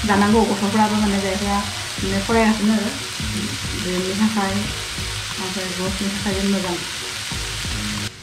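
Broccoli florets sizzling in a nonstick frying pan, stirred with a wooden spatula near the end. A tune of held notes plays over the sizzle.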